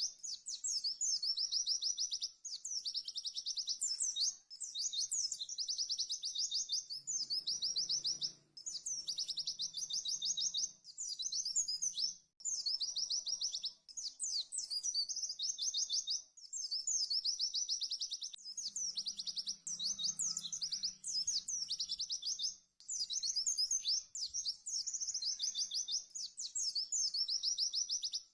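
White-eye (pleci) singing rapid, fast-repeated trilled phrases in near-continuous bursts of a second or two, each separated by a brief pause: the quick 'tembakan' song used to tutor other pleci.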